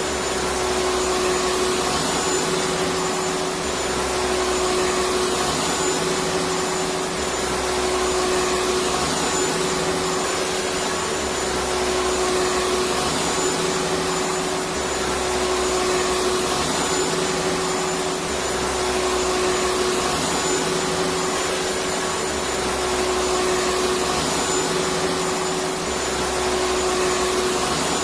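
Electric vacuum cleaner motor running continuously: a steady whooshing whir with a constant hum, and a low rumble that swells and fades about every three to four seconds.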